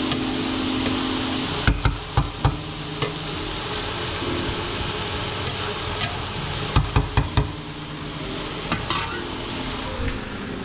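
Meat filling sizzling in a pot while it is stirred, with a spoon knocking sharply against the pot in small clusters of clicks.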